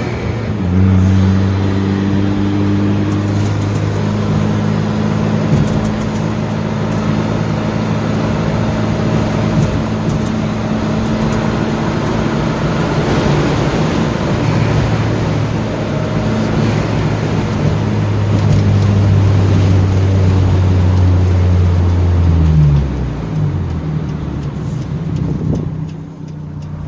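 Hyundai Genesis Coupe 2.0T's turbocharged four-cylinder engine heard from inside the cabin, holding steady revs under road and tyre noise. About 22 seconds in, the revs fall away as the car slows, then settle lower.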